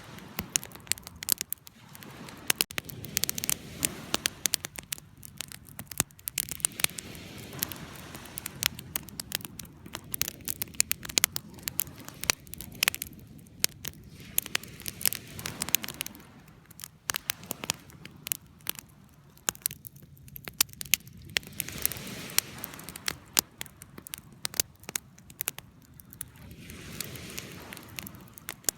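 Campfire burning, wood crackling and popping in irregular sharp snaps over a soft low rush of flames that swells and fades.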